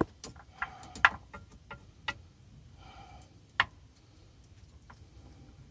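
A few sharp, separate metallic clicks and taps of a hand tool working at a stubborn fitting on a power steering pump, the strongest at the very start and about three and a half seconds in.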